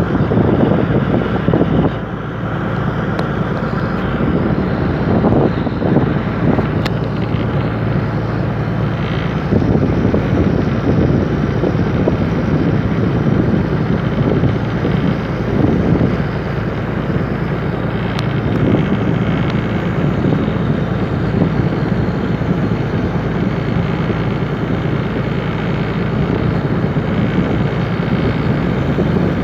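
An engine running steadily, a continuous low rumble with a constant hum and no change in speed.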